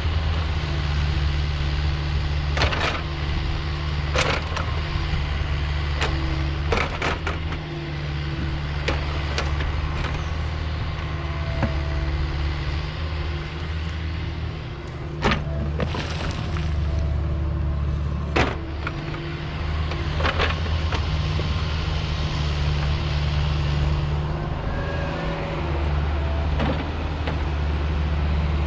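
Diesel engine of a piece of heavy earthmoving equipment running steadily under work, with a deep drone that swells and eases. Several sharp metallic knocks break in at intervals as the machine works.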